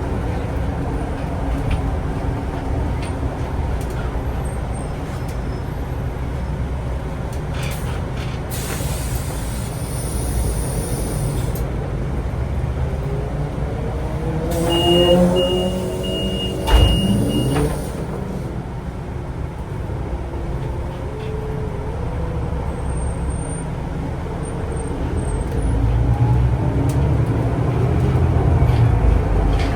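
City transit vehicle running, heard from on board, with a steady low rumble. Two bursts of air hiss come partway through, and around the middle there is a rising whine with a high beeping tone, then a single thump.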